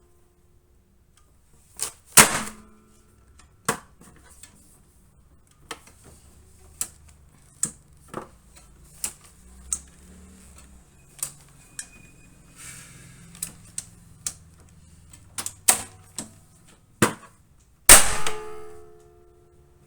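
Hyundai HGN25 air circuit breaker's mechanism operating, with two loud metallic clangs that ring on briefly, about two seconds in and near the end. Between them come lighter irregular clicks and knocks, about one a second.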